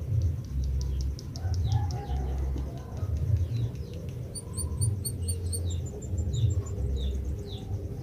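White-headed munia (emprit kaji) singing: rapid high clicking notes, then a run of thin descending whistles about once a second. A louder pulsing low rumble runs underneath.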